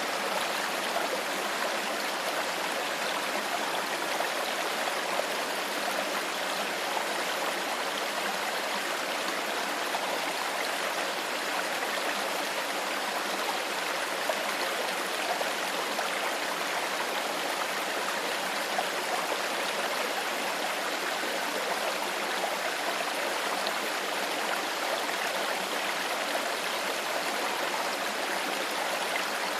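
Clear stream flowing steadily over stones, an even rushing and babbling of water.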